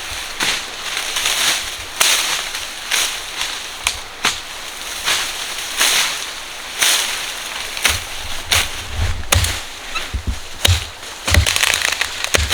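Repeated rough scraping or swishing strokes of hand work, about one or two a second, with low thuds joining in over the last few seconds.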